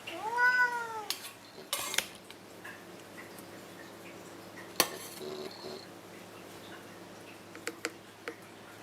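A domestic cat meows once, rising then falling in pitch, in the first second. Then dishes and cutlery clink a few times as tableware is handled.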